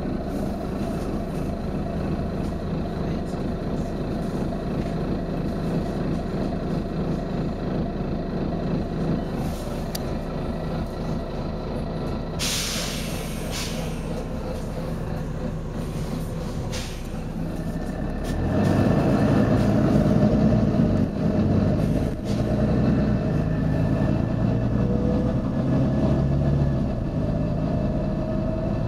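Volvo B9TL bus's six-cylinder diesel engine idling, with a loud hiss of released compressed air from the air system about twelve seconds in and a few shorter hisses after it. From about eighteen seconds the engine gets louder as it pulls away, with a faint rising whine.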